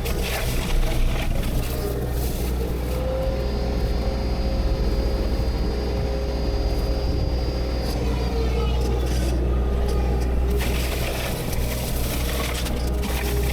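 Heavy diesel machinery running steadily, with a high whine from about three to eight seconds in and a few sharp knocks near the start and near the end.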